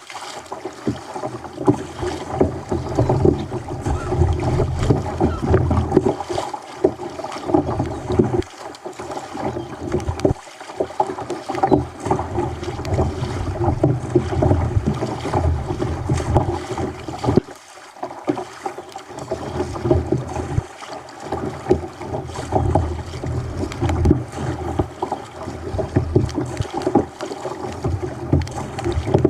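Choppy sea water sloshing and slapping against a kayak's hull, with wind buffeting the microphone, in a continuous, uneven wash.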